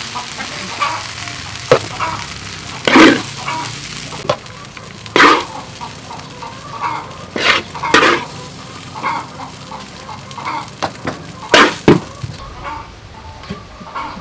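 Fried rice sizzling in a hot pan as it is stir-fried, with a steady frying hiss and several loud scraping strokes of the spatula against the pan, plus lighter clicks between them.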